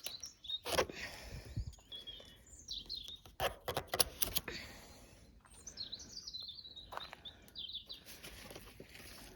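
Small birds chirping in short, sliding calls, mixed with scattered sharp snaps and rustling as a plant weighed down and broken by rain is cut loose by hand.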